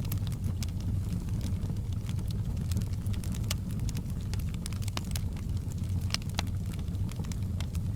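Campfire burning, with a steady low rumble of the flames and frequent irregular crackles and pops from the burning wood.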